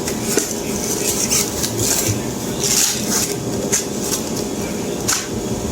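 Metal barrel stove kit parts being worked loose and pulled from their packaging: a string of knocks and clanks with scraping and rustling, over a steady hum.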